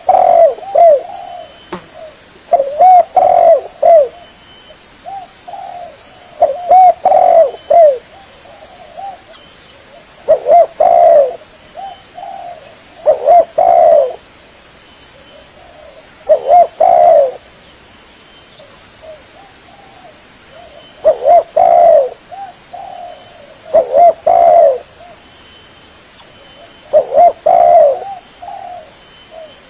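Spotted dove (tekukur) cooing. It repeats its phrase of several low, rolling coo notes about every three to four seconds, some nine times over.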